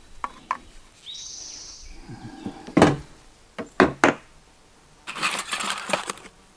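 Work noises from handling plumbing pipe and fittings: a few sharp clicks, three loud knocks around the middle, then about a second of rustling and scraping near the end.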